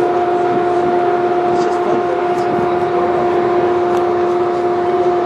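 Steady mechanical drone with a constant two-note hum over a background rush of noise.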